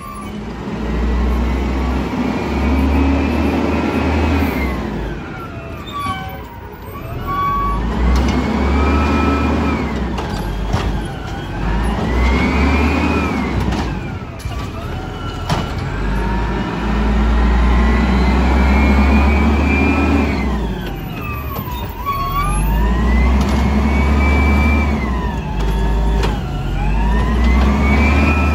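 Refuse truck's diesel engine revving up and dropping back several times, roughly every four seconds, as it drives the hydraulics of the Bridgeport Ranger automated side-loader arm.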